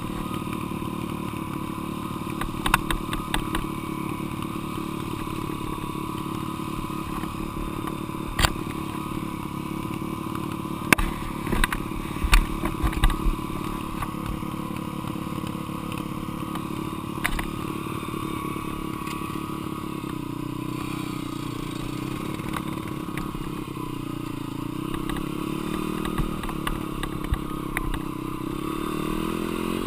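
Dirt bike engine running at a steady pitch, with sharp clacks and knocks here and there, its revs climbing near the end.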